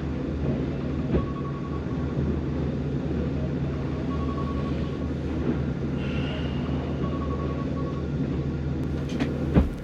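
Steady low drone of a motor yacht's engines and machinery running underway, heard below deck. There is a sharp knock near the end.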